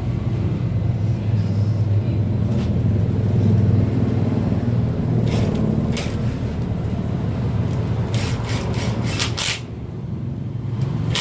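Steady low motor-vehicle rumble, with a quick run of sharp clicks or clanks about eight to nine seconds in.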